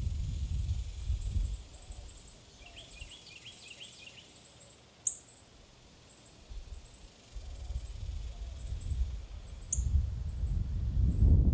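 Small birds chirping at a backyard feeder: a very high, thin chirp repeating about twice a second, with a brief burst of lower twittering a few seconds in and two sharp clicks. A low rumble sits under it at the start and again through the second half.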